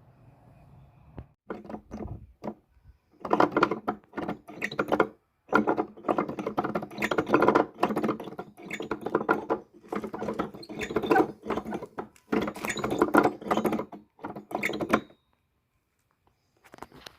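Hand-operated mechanical machine being worked in bursts: a dense run of clicking and rattling that starts about a second and a half in, stops and restarts several times, and cuts off about two seconds before the end.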